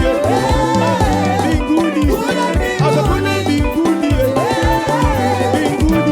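Live gospel praise and worship band playing an upbeat song, with a lead voice singing a wavering melody over bass and a steady drum beat.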